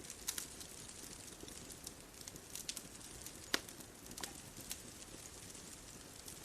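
Wood bonfire crackling: scattered sharp pops and snaps over a faint, steady hiss, with one louder pop about three and a half seconds in.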